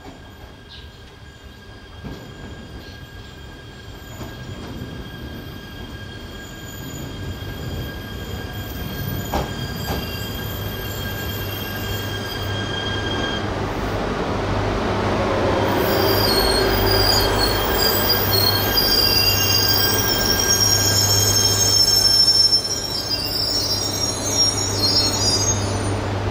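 E3 series Yamagata Shinkansen train on conventional track, growing steadily louder as it approaches, with high-pitched wheel squeal over the second half and the level dropping a little near the end.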